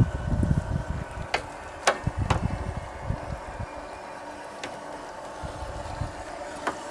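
Homemade electric profile bending machine (pipe bender) running with a steady motor hum. There is low rumbling with several sharp knocks in the first three seconds, and a couple more clicks near the end.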